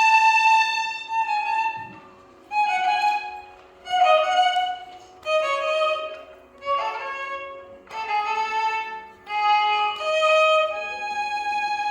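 Violin ensemble playing a Carnatic melody: a long held note that fades away, then a run of short phrases, each about a second long with brief gaps between them, over a faint steady drone.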